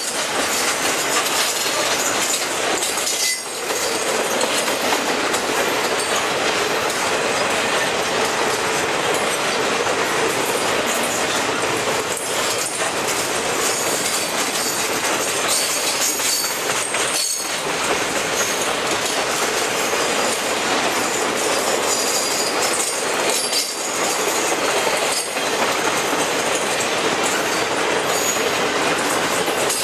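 Triple Crown RoadRailer trailers rolling past on their rail bogies: a steady rush of steel wheels on the rails, with some clickety-clack, faint high wheel squeal and a few brief dips.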